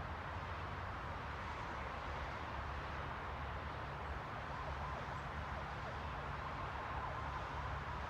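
Steady white-noise hiss over a low rumble. A faint, thin high tone joins it about halfway through.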